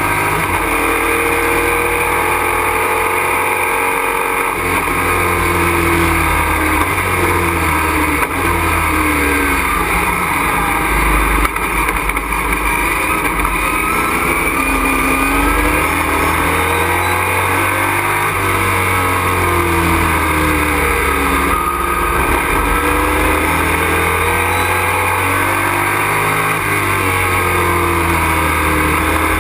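Race truck's engine heard from inside the cockpit at racing speed, its pitch rising and falling again and again as it accelerates and slows through corners, over a steady drone of road and wind noise.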